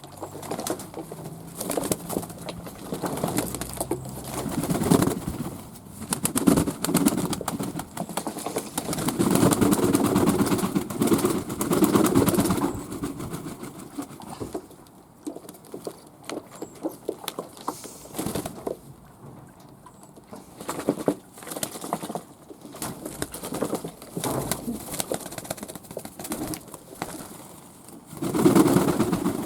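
Fantail pigeons cooing in bouts with pauses between, the longest and loudest bout about ten seconds in, with scattered light clicks and knocks.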